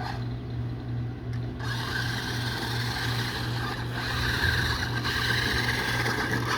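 New Bright toy-grade RC monster truck driving, a steady mechanical whir of its motor and gears over an evenly pulsing low hum.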